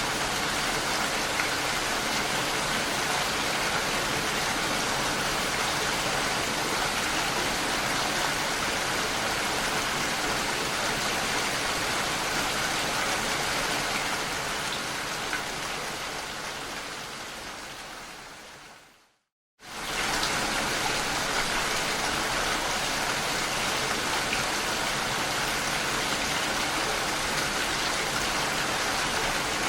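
Steady rain falling. About two-thirds of the way in it fades away over a few seconds to a moment of silence, then comes back abruptly at full strength.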